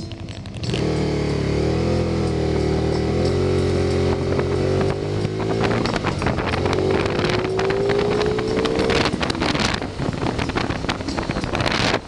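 Can-Am Spyder roadster engine running under way, pulling up in pitch as it accelerates between about six and nine seconds in, with rough wind and road noise over it.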